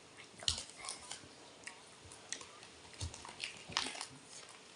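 A person chewing a chewy gummy sweet, with short mouth clicks at irregular intervals.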